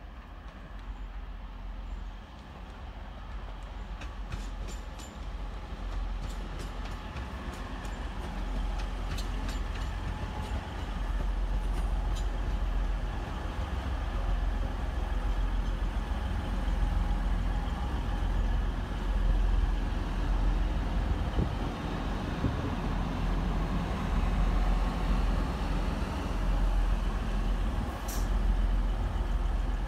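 Passenger train running at a railway station, a steady low rumble of engine and wheels that grows louder over the first half, with a brief high hiss near the end.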